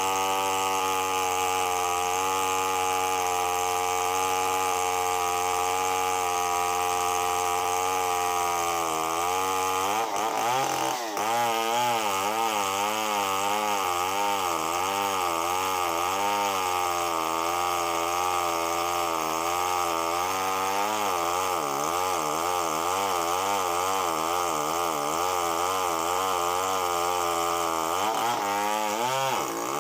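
Chainsaw engine running at a steady pitch, then from about ten seconds in its pitch wavers up and down without a break.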